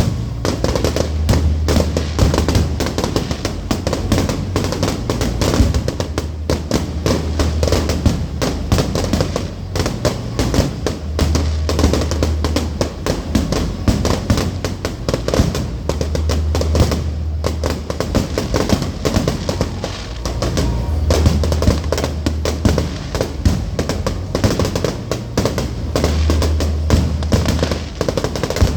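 Fireworks display going off in a dense, continuous run of bangs and crackles. Music with a deep bass line plays along, the bass swelling in blocks every few seconds.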